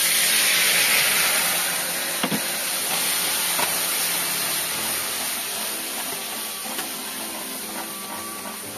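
Ground garlic and green chilli paste sizzling in hot oil in a pan, loudest as the wet paste goes in and slowly dying down.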